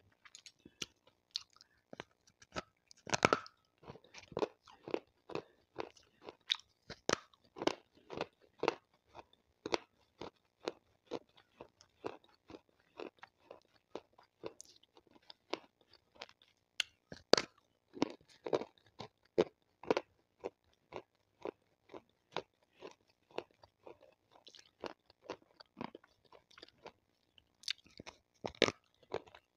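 Close-miked chewing and crunching of water-soaked white slate stone: a dense, irregular run of sharp crunches, a few a second, with louder bites about three seconds in, midway and near the end.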